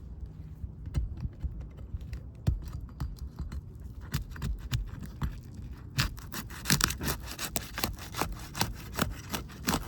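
Crowbar working under asphalt roof shingles to break their sealant bond, with scraping and a run of sharp crackles and clicks that grows denser in the second half.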